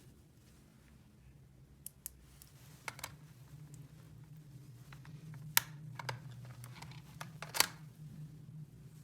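Irregular sharp clicks and taps of small hard plastic toy pieces being handled, about seven in all, over a low steady hum.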